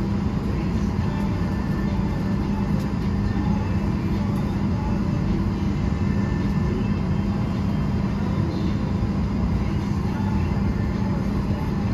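Steady cabin noise inside a Boeing 737-800 airliner: an even rushing hum with a constant low drone.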